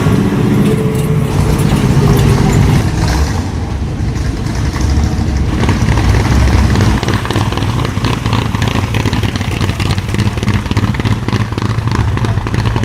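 A car engine running with a low, steady sound, loud and close.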